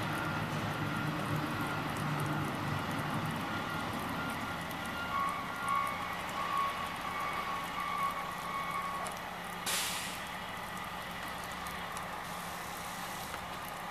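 Heavy truck engine running, with a backup alarm beeping at an even pace for a few seconds midway. About ten seconds in, a short hiss of air brakes.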